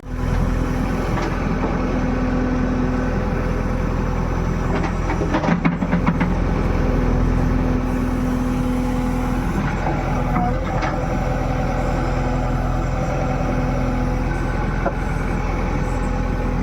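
A heavy engine running steadily, with a short cluster of knocks about five and a half seconds in.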